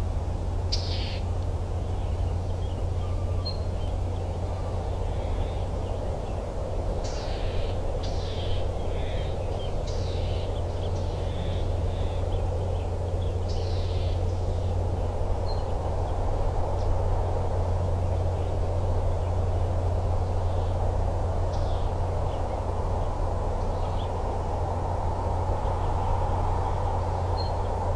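Birds giving short, sharp calls now and then, over a steady low rumble and hiss.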